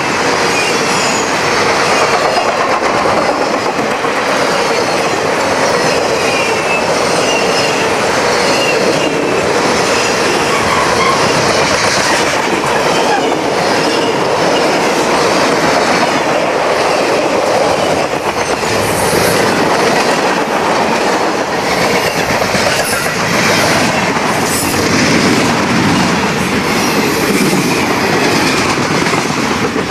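Freight cars of a long mixed freight train rolling past close by: a steady rumble and hiss of steel wheels on rail. Through the second half, a repeating clatter of wheels striking the rail joints stands out.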